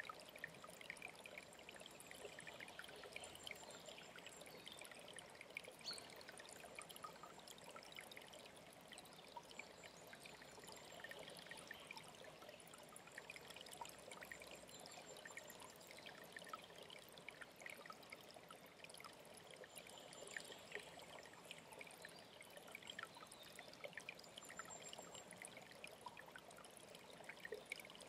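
Faint, steady trickling and splashing of an alpine stream, with short, high bird calls every few seconds.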